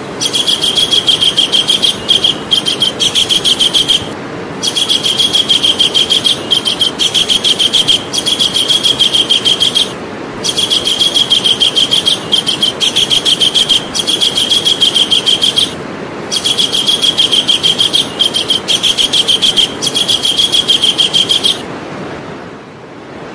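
Javan kingfisher calling: a loud, rapid, shrill run of repeated notes in bouts of about five seconds with short pauses between them, over a steady background hiss. The calling stops for the last couple of seconds.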